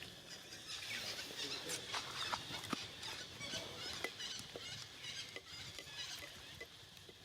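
Monkeys giving short high-pitched squeaks among scattered clicks and rustles, faint.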